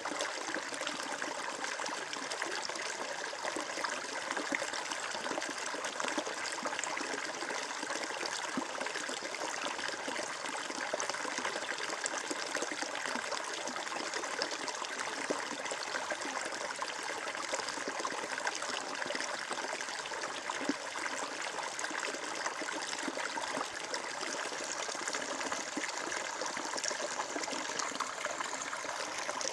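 Flowing water running steadily, a continuous babbling trickle like a small stream.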